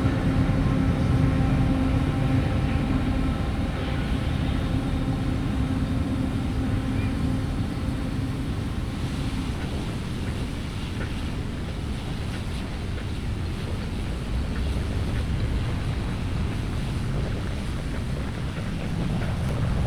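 Railway rumble with a steady engine hum that fades out about nine seconds in, leaving an even rushing noise.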